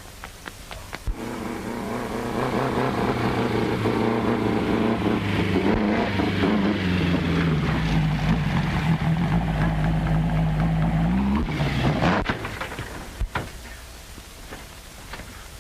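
Racing car engine running close, growing louder over the first couple of seconds, its pitch dipping and then rising sharply just before it cuts off suddenly about twelve seconds in. A few clicks follow.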